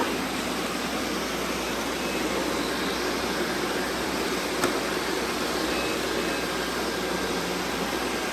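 Robot vacuums running: a steady whir of suction fans and brushes, with one sharp click a little past the middle.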